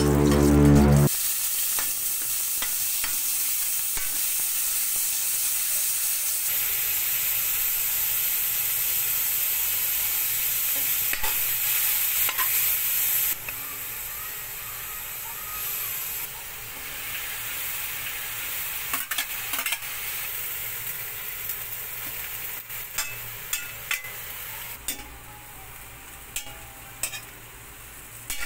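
Garlic, onion and ground pork sizzling in hot oil in a wok while a spatula stirs them. The sizzle is loudest in the first half and then settles lower, and near the end the spatula clicks and scrapes against the wok as yardlong beans are tossed.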